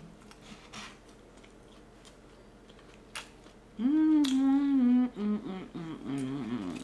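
A woman humming with her mouth closed. After a few seconds of faint mouth clicks comes one long, steady hum, then several shorter hums that waver up and down in pitch.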